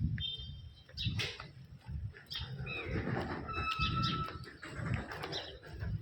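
A few short bird chirps and whistles over repeated low thumps and rumbles.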